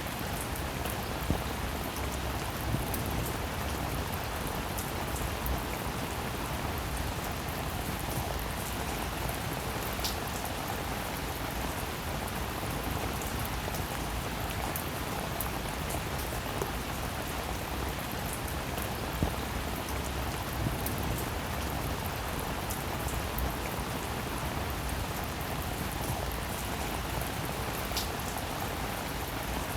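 Steady, unbroken rainfall with individual drops ticking throughout and an occasional sharper single drop.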